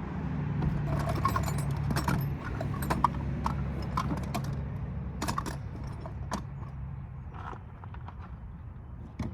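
Small metal tools and parts clinking and rattling as they are handled: a series of irregular sharp clicks over a low steady hum.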